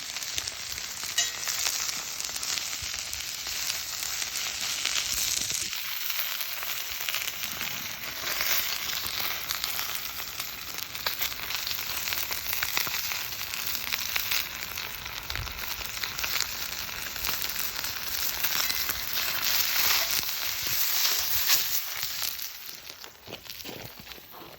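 Chicken frying in a Turk iron frying pan, a steady sizzling hiss with fine crackling.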